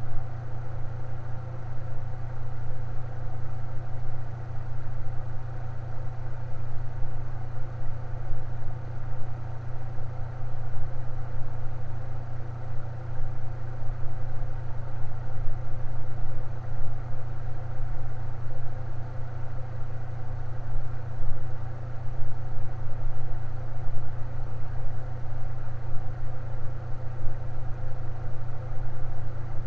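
Electric fan running steadily: a strong low motor hum with fainter steady tones above it and a soft rush of air, unchanging throughout.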